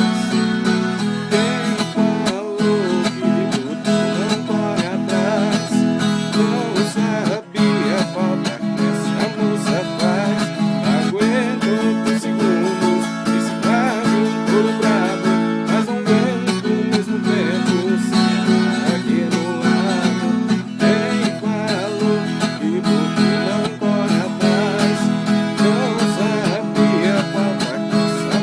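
Viola caipira, the Brazilian ten-string folk guitar, played solo: a busy plucked melody over steadily ringing low strings.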